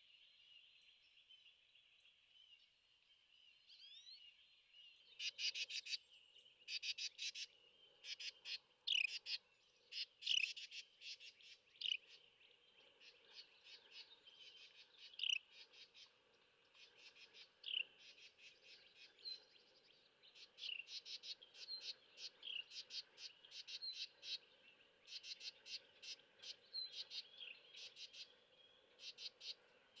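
A small bird calling in rapid series of short, high chattering notes, starting about five seconds in and coming back in burst after burst, some notes with quick pitch slides.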